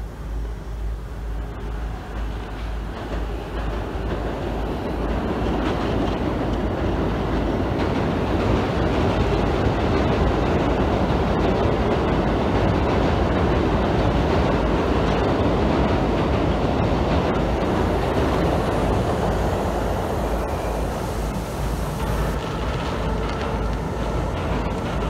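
Amtrak Acela Express electric trainset crossing a steel truss railway bridge: a steady rumble of wheels on rail that builds over the first few seconds, then holds loud.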